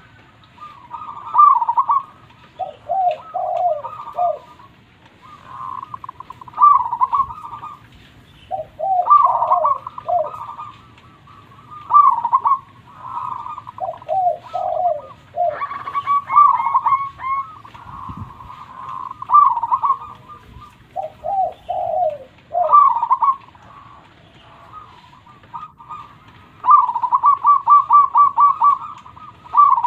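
Zebra dove (perkutut) singing its cooing song in repeated phrases every few seconds, each a higher trilled coo followed by lower coos. Near the end comes a long run of quick staccato notes.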